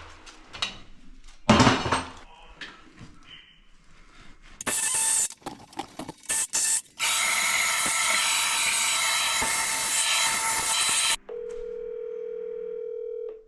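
Power tool running in bursts, the longest for about four seconds, with knocks and clatter of tool handling between them. Near the end a steady, even electronic tone sounds for about two seconds.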